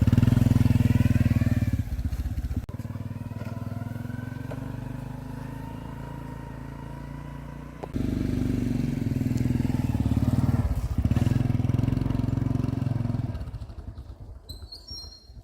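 Motorbike engine running: loud at first, dropping off about two seconds in, then suddenly louder again about eight seconds in, and fading away near the end.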